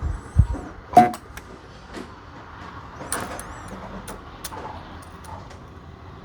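Sunko 709A battery spot welder firing pulses as it welds nickel strip onto 18650 cells: a run of sharp snaps, the loudest about a second in, with softer ones spread through the rest.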